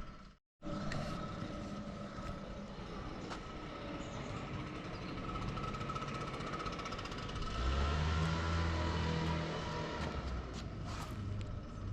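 An engine running steadily, with a deeper, louder engine drone for about two seconds starting about eight seconds in.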